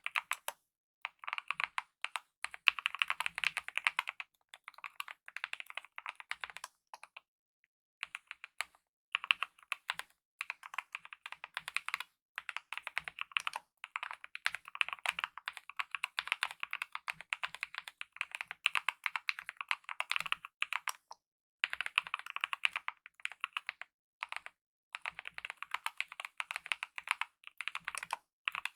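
Typing on a Kemove mechanical keyboard with lubed optical red linear switches and DSA-profile keycaps: runs of quick keystrokes broken by brief pauses, the longest about two seconds, a quarter of the way in.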